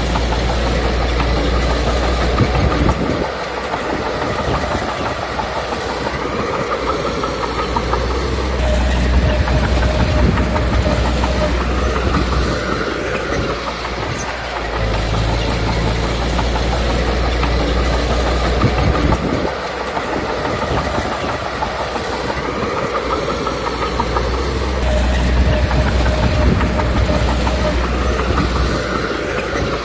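Komatsu D21P bulldozer working: its diesel engine running under load and its steel tracks clattering. A heavy low rumble swells and eases in long cycles as it pushes and backs off.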